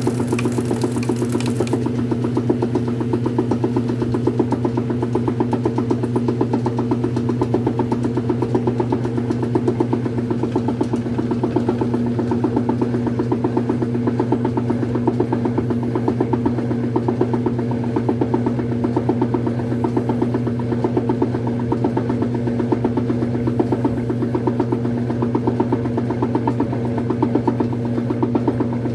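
Brastemp Super Filtromatica washing machine running with a steady electric-motor hum and a fast, even chatter, unchanged throughout. A brief hiss sits on top for the first two seconds.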